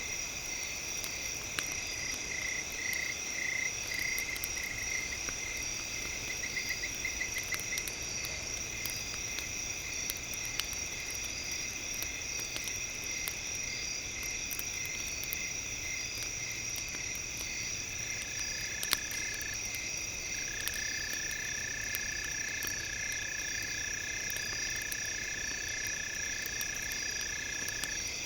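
Campfire crackling, with scattered sharp pops, under a steady chorus of high, pulsing calls of night insects and frogs. A held high tone joins from a little past halfway.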